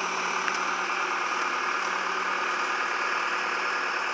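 An engine running steadily at idle, an even hum.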